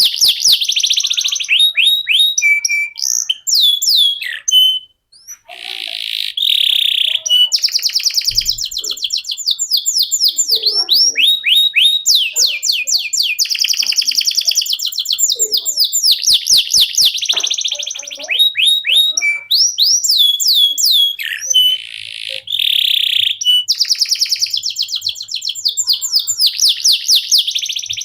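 Canary singing a long, continuous song of fast trills and rolls built from rapidly repeated sweeping notes, with a brief break about five seconds in.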